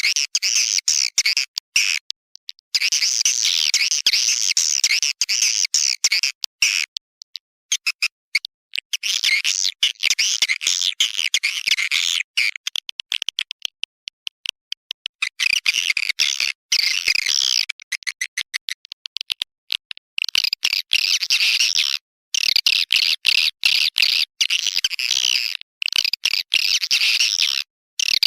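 Recorded swiftlet call sound, the lure played to draw swiftlets into a bird house: long stretches of rapid, high twittering, broken by short silences and by runs of fast clicks.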